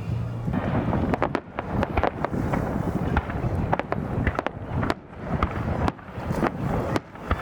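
Fireworks going off: an irregular run of sharp cracks and bangs over a rushing background noise.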